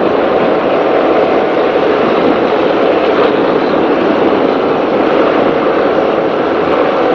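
Offshore racing powerboat running at speed near full throttle, a loud steady mix of engine drone and rushing wind and water, heard from onboard.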